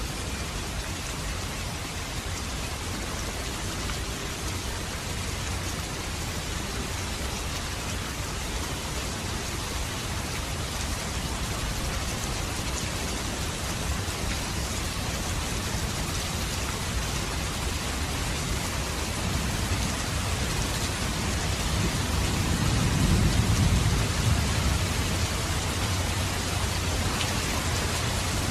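Steady rain falling, an even hiss of drops on surfaces. About three quarters of the way through, a low rumble of thunder swells and fades.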